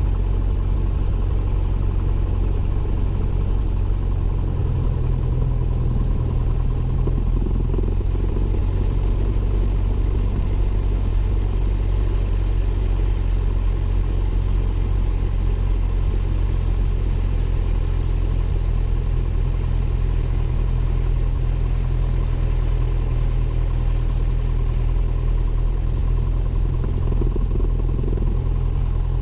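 Cessna 172N's four-cylinder Lycoming engine and propeller running steadily, a constant low drone.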